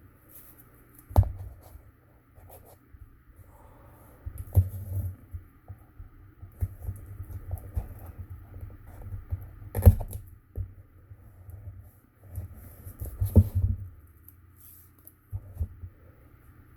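Cardstock and masking tape being folded and pressed by hand on a tabletop: intermittent rustling with a few sharp taps, the loudest about ten seconds in.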